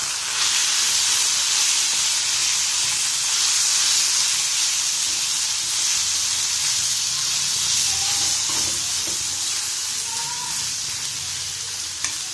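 Minced mutton, onions and spices sizzling steadily in a frying pan while being stirred with a metal spoon, with a short click near the end.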